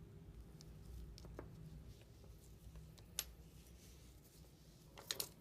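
Faint low hum with a few light clicks: one sharp click about three seconds in and two quick clicks near the end, from small metal parts of a Leibinger numbering machine being handled as it is taken apart.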